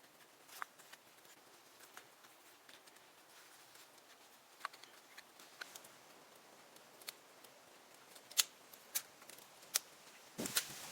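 Scattered sharp clicks and snaps, about a dozen at irregular intervals and more frequent in the second half, with a louder knock and rustle near the end.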